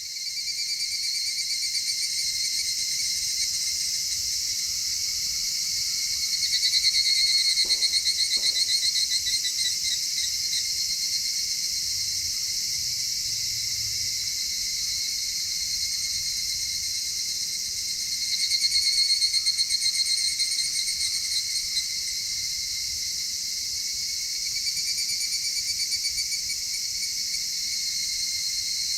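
Chorus of insects chirring steadily at a high pitch, with a fast pulsing trill that swells louder twice, about a quarter of the way in and again past the middle.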